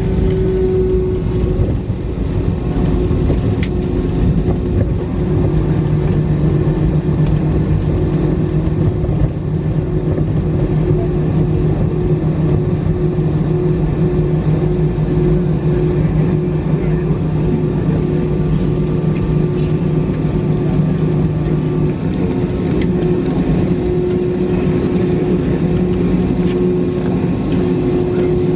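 Inside the cabin of an Airbus A319 taxiing after landing: a steady rumble of the jet engines at low power and the cabin air, with a constant low hum and a few faint clicks.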